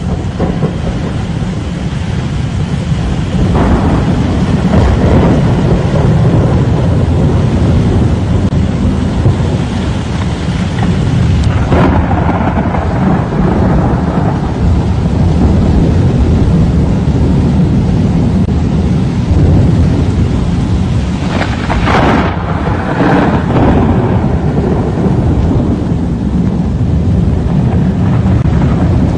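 Thunderstorm noise: a loud, steady low rumble of wind and rain, with brief louder surges about 4, 12 and 22 seconds in.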